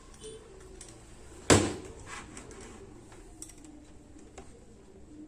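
Handling noise on a repair bench: one sharp knock about a second and a half in, followed by a few faint taps and clicks.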